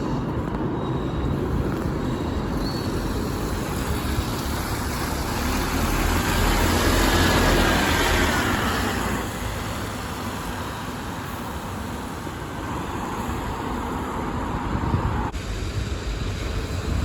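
City bus driving past in traffic, its engine and tyre noise swelling to a peak about six to nine seconds in, with a faint whine that rises and falls, then easing off.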